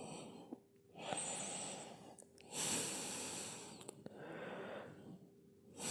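A person breathing faintly, in and out about once a second, several breaths in a row.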